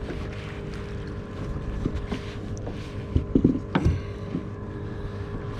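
A boat engine running steadily at idle with wind on the microphone, with a few short knocks about three to four seconds in.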